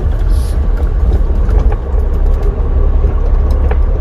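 Semi truck's diesel engine and drivetrain rumbling steadily, heard inside the cab, with faint scattered rattles and clicks.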